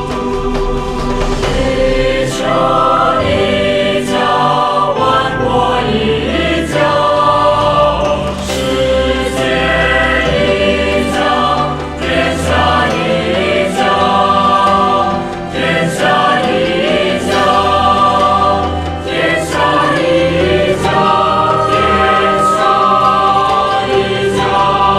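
A choir singing over backing music with a regular beat, the voices holding long notes.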